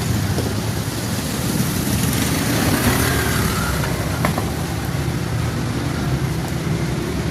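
Heavy rain falling in a steady hiss, with the low rumble of vehicle engines on the road underneath.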